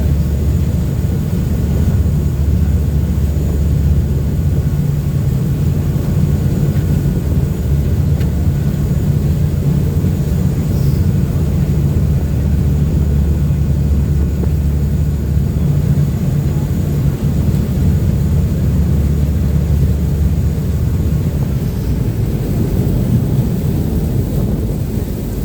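River bus engines running at cruising speed, a loud steady low drone.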